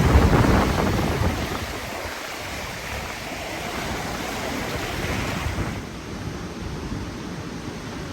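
Ocean surf washing in with wind buffeting the microphone, loudest in the first second or so. About six seconds in the sound turns duller, losing its hiss.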